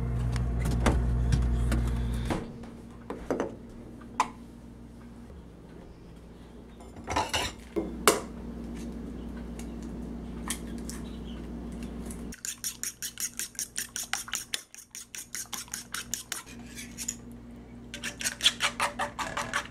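Kitchen utensils and dishes clinking and scraping. A low hum runs for the first two seconds, then there are scattered clicks and knocks, and in the second half a metal utensil works fast and rhythmically against a bowl or plate, about four to five strokes a second.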